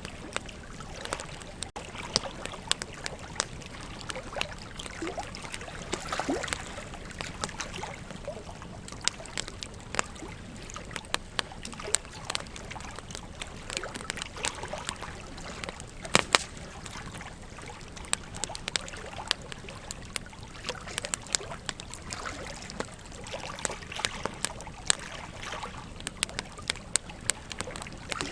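Wood campfire crackling, with frequent sharp pops and snaps, the loudest about sixteen seconds in, over the steady rush of river water.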